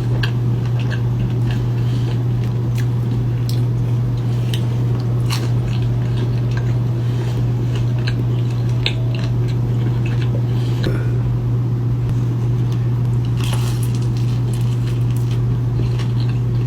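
Close-miked eating: chewing and biting with scattered crunchy clicks and wet squishing, over a steady low hum.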